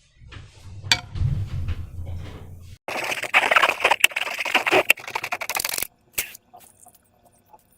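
Slime being handled in the hands: a low rubbing rumble with a single click, then about three seconds of dense, fine crackling as it is squeezed and stretched, trailing off into a few small clicks.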